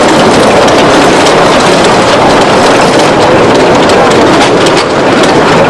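Small narrow-gauge tourist-railway locomotive running along the track, heard from beside the cab: a loud, steady rushing noise with no let-up.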